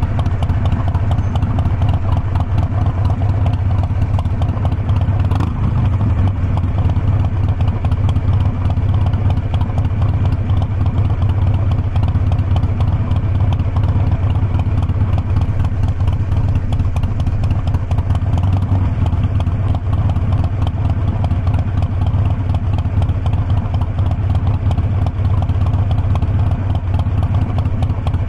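Harley-Davidson Forty-Eight Sportster's air-cooled V-twin engine running steadily, its exhaust pulses holding one even engine speed.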